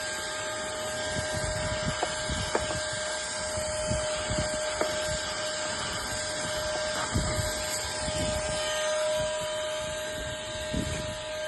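Wapasoo cordless handheld vacuum running with a steady whine and hiss, its extension nozzle knocking and scraping irregularly over car interior surfaces as it sucks up dirt.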